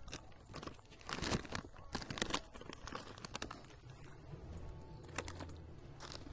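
Potato chip bag crinkling as it is handled, with the crunch of chips being bitten and chewed; irregular sharp crackles in small clusters.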